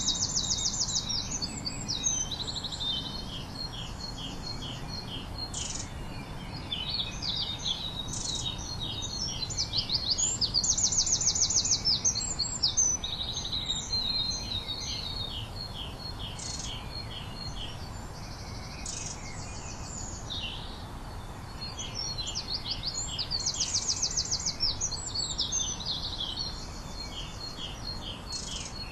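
Several songbirds singing at once in a continuous chorus of rapid trills and repeated high notes, over a steady low background noise.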